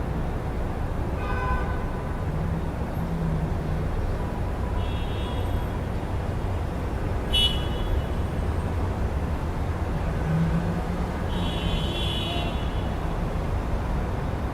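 City street traffic heard through an open window: a steady low rumble of passing vehicles. A few brief high-pitched sounds stand out over it, a sharp short one about halfway and a longer one near the end.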